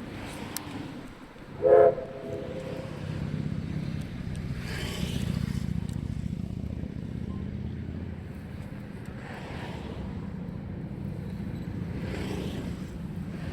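Steam locomotive whistle giving one short blast about two seconds in, followed by a steady low rumble of the train running.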